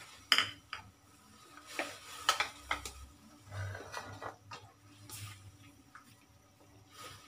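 Black plastic spatula scraping and knocking against an aluminium wok as chunks of pork and liver are stirred in a little liquid, in a handful of short, sharp clicks and scrapes, the sharpest about a third of a second in.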